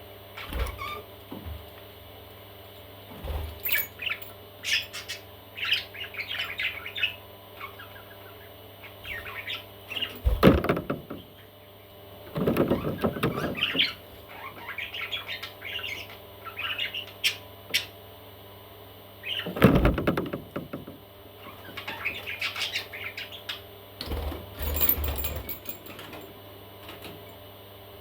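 Baby parrots giving short, scattered chirps. Three louder noisy bursts stand out among them, with a few soft low thumps.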